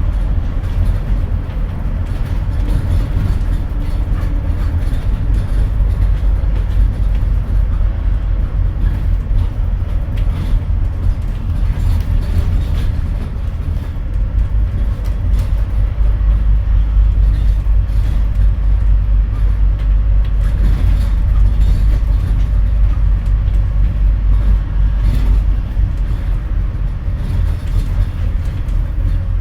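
Scania N230UD double-decker bus heard from on board while driving, its engine giving a steady, loud low drone over road noise. The low drone grows stronger about halfway through.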